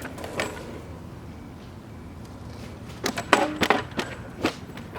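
Small hard wheels of an electric rental scooter rolling over pavement: a steady rumble, with a sharp click about half a second in and a few more sharp clicks and knocks between about three and four and a half seconds in.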